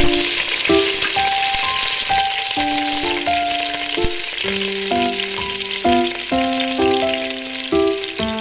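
Sliced onions and garlic sizzling steadily in hot cooking oil in a metal pot, over background music with a melody.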